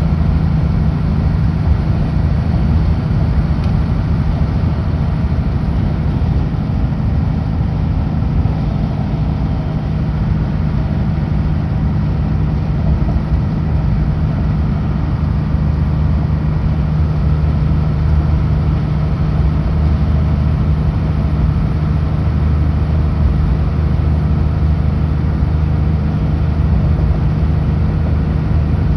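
Kenworth W900L semi truck's diesel engine running steadily at highway cruise, a loud, even low drone with no shifts or breaks.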